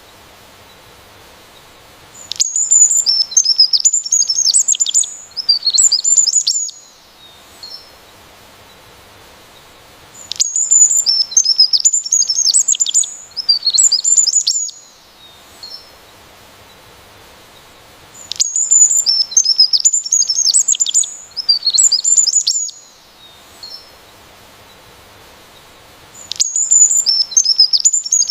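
A songbird singing: rapid, high-pitched warbled phrases of about four seconds each, repeated four times at even intervals of about eight seconds.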